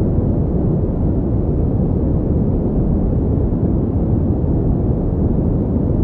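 Steady pink noise played as a sleep and focus sound: an even, deep rushing hiss, heavy in the low end, that never changes.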